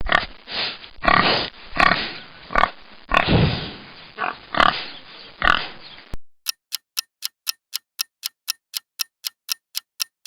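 A pig grunting and squealing in a run of short, rough calls for about six seconds. Then a quiz countdown timer takes over, ticking evenly about four to five times a second.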